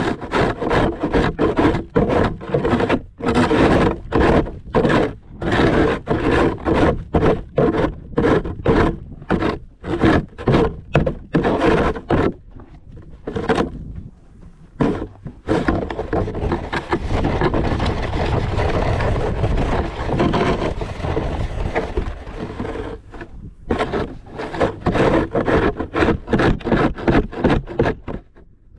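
Snow shovel scraping along a paved driveway in quick repeated strokes. Around the middle comes one long continuous push, then the short strokes resume.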